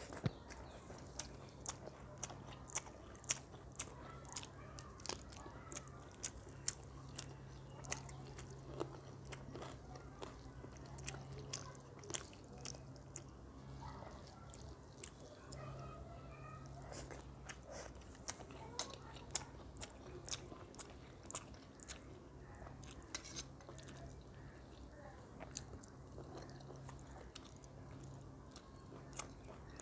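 Close-miked eating of rice with chicken kosha curry: chewing and biting with frequent sharp wet mouth clicks, several a second, over a steady low hum.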